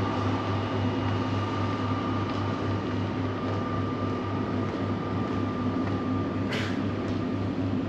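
Steady mechanical hum with a low throb pulsing about four times a second and a faint high whine over it; a brief soft hiss about six and a half seconds in.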